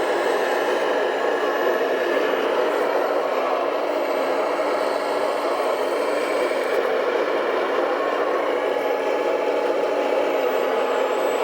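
Small electric motors and gears of radio-controlled model vehicles whirring steadily, with a faint steady whine over the noise.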